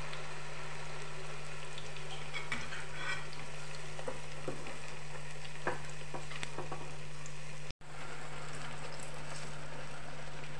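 Banana malpua batter deep-frying in hot oil in a pan: a steady sizzle with scattered crackles and pops. The sound cuts out for an instant about eight seconds in.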